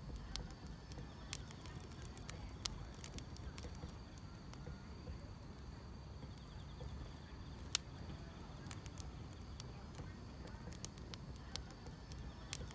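Wood fire crackling with irregular sharp pops over a low steady rumble; the loudest pop comes about eight seconds in. Insects chirp faintly in a steady high trill behind it.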